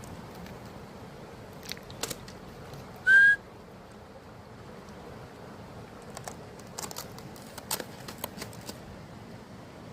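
One short, steady recall whistle blast about three seconds in, calling the dogs back, with scattered faint clicks and snaps around it.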